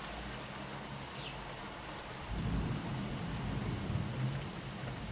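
Steady rain falling, then a little over two seconds in a low rumble of thunder sets in and rolls on.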